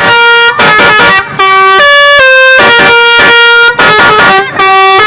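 Loud multi-note musical horn on a vehicle playing a tune of stepped notes, a 'telolet'-style horn. The tune breaks off briefly and starts over about four seconds in.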